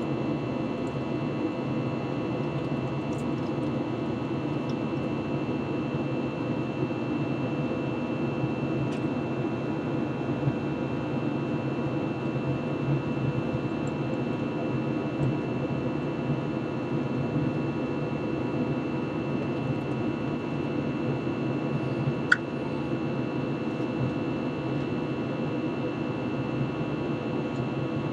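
Steady cabin noise inside an Airbus A321 in flight: an even rush of airflow and engine noise with a faint steady hum. About 22 seconds in there is one brief sharp click.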